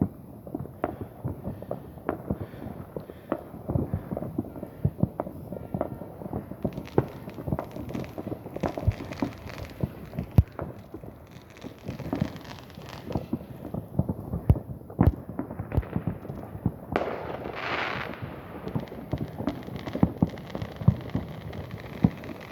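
Fireworks going off: many bangs and pops at irregular, often overlapping intervals, with a hiss lasting a second or so about 17 seconds in.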